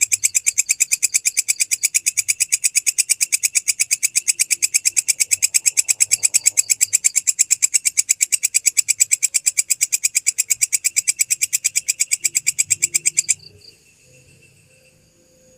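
A grasshopper stridulating: a loud, high, rapidly pulsed call that keeps an even rhythm, then stops abruptly a couple of seconds before the end, leaving faint distant insect chirps.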